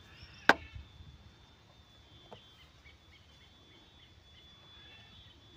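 Quiet outdoor farm ambience with faint distant bird calls and a faint steady high whine, broken by a single sharp click about half a second in.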